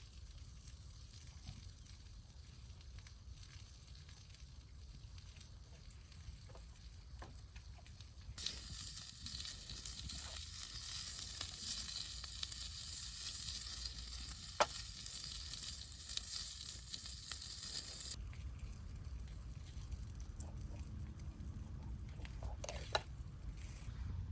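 Food sizzling in a frying pan over a wood fire, with scattered pops. The sizzle starts suddenly about eight seconds in and cuts off about ten seconds later. Before and after it there is only a low rumble with a few faint clicks.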